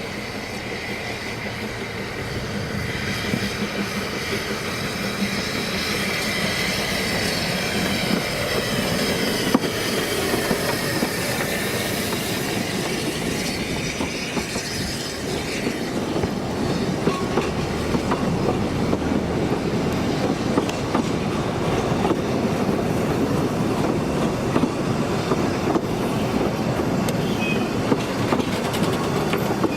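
Narrow-gauge steam train running past, its wheels clicking over the rail joints; the sound builds over the first half and then stays steady.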